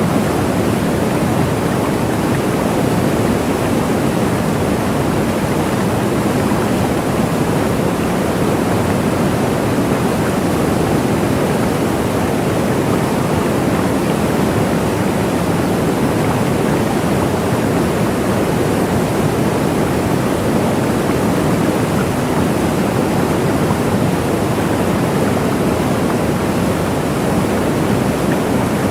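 Waterfall: water falling steadily in an even, unbroken rush.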